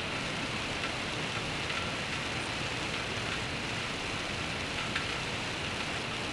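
Steady rainfall hissing on a surface, with a few sharp drips standing out, over a low steady rumble.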